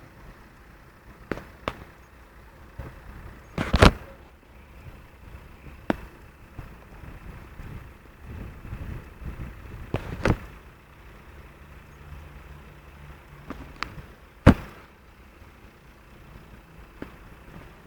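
Storm wind noise, with a handful of sharp knocks scattered through it. The loudest knocks come about four seconds in and again near the three-quarter mark.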